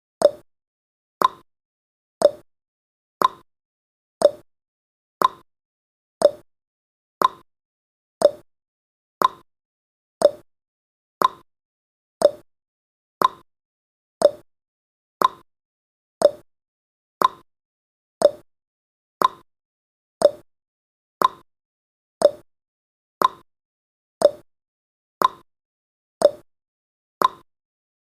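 Countdown timer's tick sound effect: a short, identical click once every second, evenly spaced, with silence between ticks.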